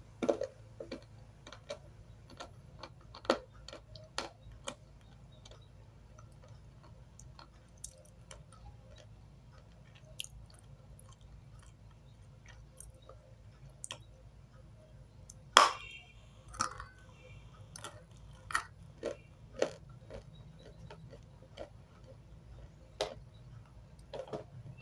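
Close-up chewing of dry clay chalk: scattered crisp crunches and mouth clicks with pauses between them, the loudest crunch about two-thirds of the way through.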